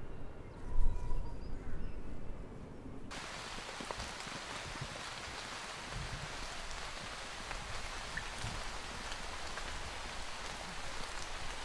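Steady hiss of heavy rain falling, with scattered ticks of individual drops, cutting in abruptly about three seconds in. Before that, only a faint low rumble.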